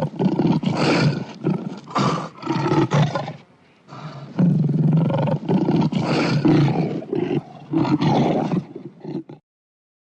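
A big cat roaring and snarling in two long rough bouts with a short break between them. The roaring stops about a second before the end.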